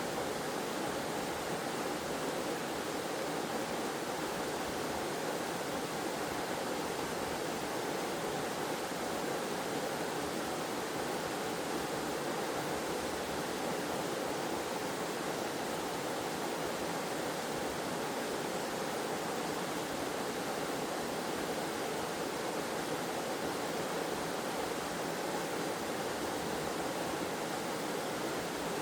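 Waterfall cascading in a steady, even rush of falling water, with no breaks or changes.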